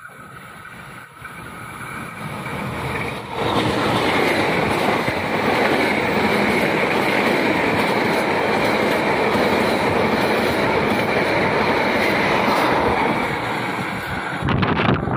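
Passenger train approaching and passing close at speed: a growing rumble, then a loud steady rush of wheels on rails as the coaches go by, easing near the end as it recedes. Wind buffets the microphone in the train's wake at the very end.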